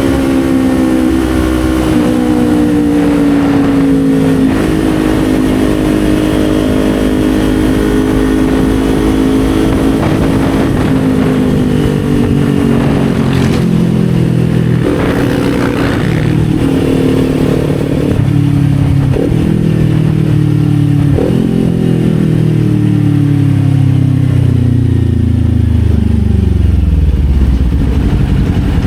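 Kawasaki Z400 motorcycle's parallel-twin engine running under way. Its pitch eases down slowly, changes in a few steps with short clicks around the middle, then falls in one long, smooth glide near the end.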